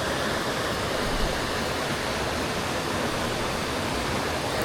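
Steady rush of a fast-flowing jungle river running high after rain.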